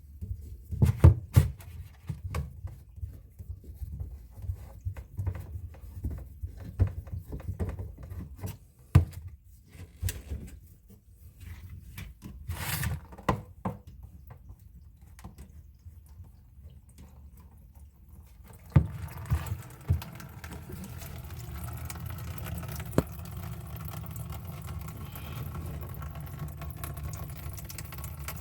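Scattered knocks and clicks of a clogged sink drain being taken apart by hand. About two-thirds of the way in, a steady rush of running water starts and carries on.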